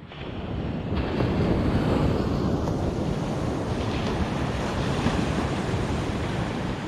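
Ocean surf washing onto the beach, with wind buffeting the microphone; the rush swells over the first second and then holds steady.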